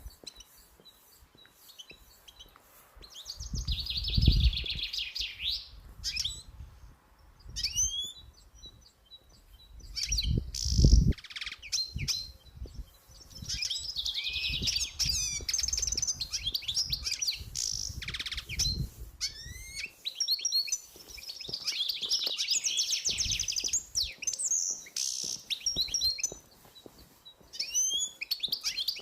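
Songbirds singing, repeating phrases of fast trills with sharp downward-slurred notes between them. Two low rumbles come about four and eleven seconds in.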